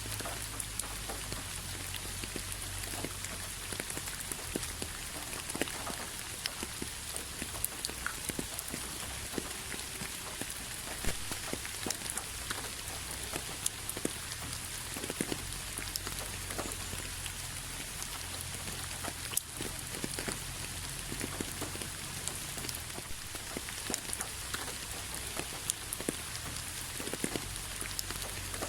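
Steady rain falling, a constant hiss with many separate drops ticking sharply on a surface, over a low steady rumble.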